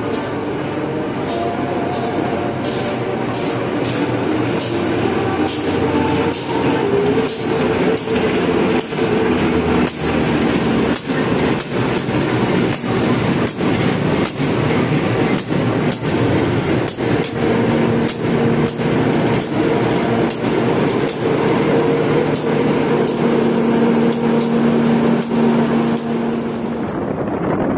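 Indonesian (KAI) diesel locomotive and its passenger coaches passing close by at low speed: a steady engine hum under regular clacks of the wheels crossing rail joints.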